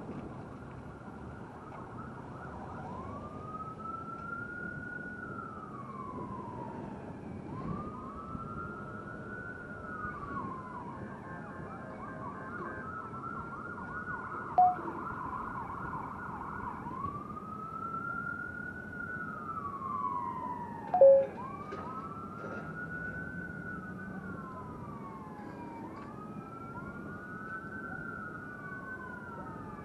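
Emergency vehicle sirens wailing, each sweep rising and then falling every few seconds, with two sirens overlapping in the second half. Two short, loud blasts sound about midway and again some seconds later.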